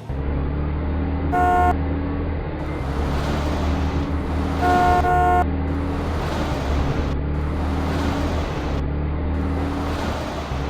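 Truck sound effect for an animated mail truck: an engine running steadily with a low drone, and two horn toots, a short one about a second and a half in and a longer one around five seconds in.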